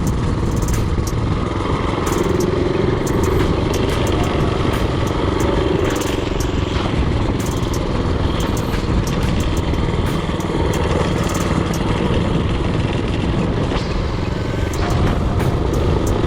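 Predator 224cc single-cylinder mini-bike engine running steadily while riding, with short clicks and rattles scattered throughout.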